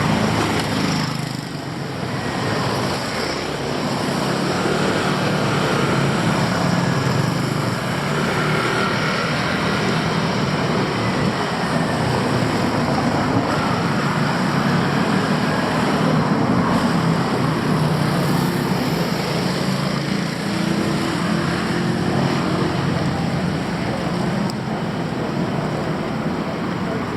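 Steady street traffic noise from passing cars and motorbikes, dipping briefly about a second in.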